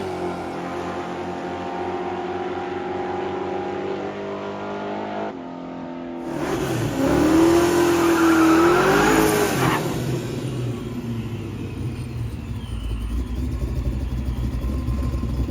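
Car engines at a drag strip: a steady idle for the first few seconds, then about six seconds in an engine revs up hard, its pitch rising and dipping, before settling into a low rumble.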